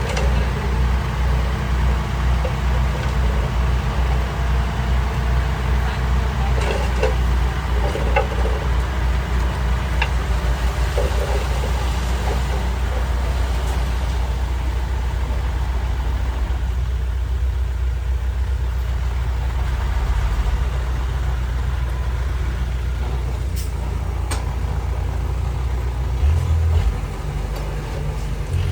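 Diesel engine of heavy earthmoving equipment running steadily, with scattered metallic clanks and knocks. The engine note shifts briefly near the end.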